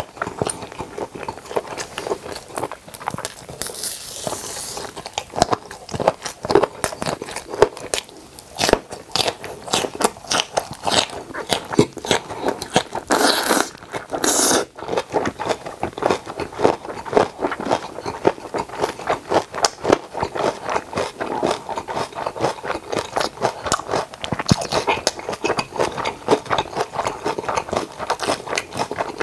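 Close-miked chewing of napa cabbage kimchi: steady wet crunching and mouth clicks. Two short, loud rushes of noise come about halfway through as a strip of kimchi is drawn into the mouth.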